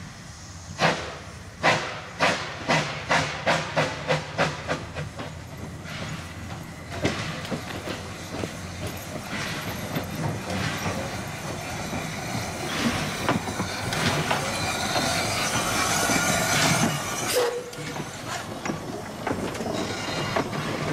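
Puffing Billy Railway narrow-gauge train in motion: about ten sharp beats, quickening over the first few seconds, then steady running noise with a hiss that builds, broken by a short squeal about 17 seconds in.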